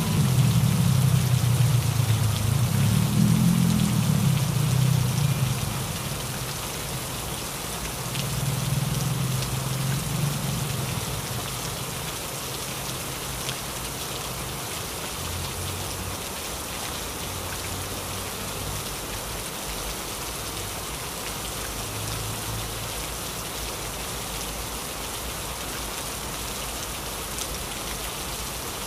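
Heavy rain falling steadily, with low rolling thunder rumbling through the first several seconds, rumbling again briefly about a third of the way in, then dying away.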